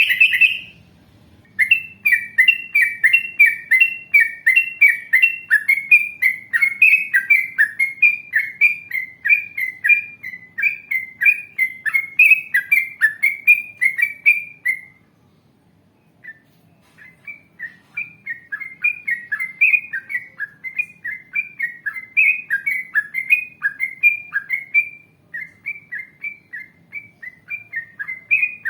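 Yellow-vented bulbul (trucukan) singing long runs of quick, repeated chattering notes, about two or three a second. One run breaks off about halfway through and the next resumes after a short pause.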